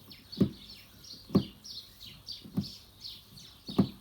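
Small birds chirping: a quick falling chirp repeated two to three times a second. Louder, short low pulses come about once a second over it.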